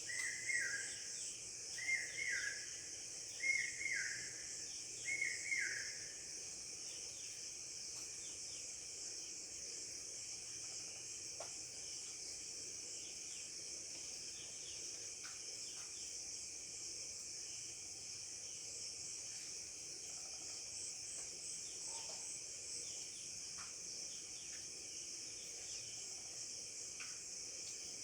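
Crickets or other insects chirring steadily and high-pitched. A bird repeats a short, falling two-part call about every second and a half, five times in the first six seconds. After that, only a few faint, sparse bird chirps are heard.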